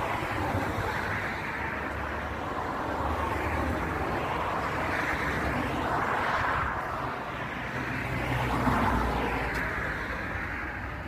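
Highway traffic: vehicles passing one after another, the steady tyre and engine noise swelling and fading with each pass over a low rumble.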